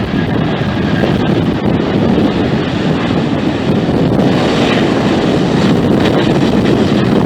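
Jet airliner engines roaring steadily, mixed with wind buffeting the microphone.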